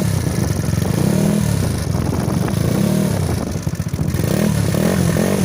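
100 cc big-bore scooter engine with a racing cam, revved repeatedly through a carbon fiber performance muffler. Its pitch rises and falls about once a second, with a throaty exhaust note.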